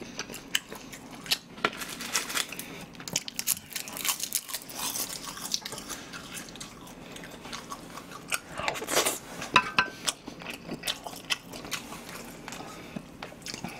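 Close-miked chewing and wet mouth sounds of someone eating Spam kimchi fried rice by the spoonful, with scattered sharp clicks and scrapes of the spoon in the pan.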